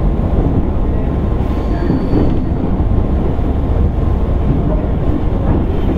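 Interior running sound of a JR East 205 series 600-subseries electric train motor car: a steady, dense rumble of wheels and running gear on the rails while the train travels between stations.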